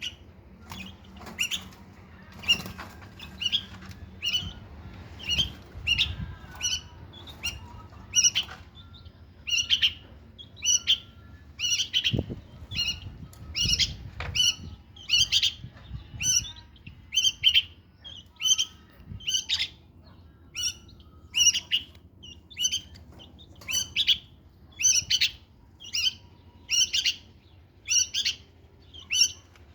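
Bulbuls calling: short, sharp chirps repeated about once a second or a little faster, steadily.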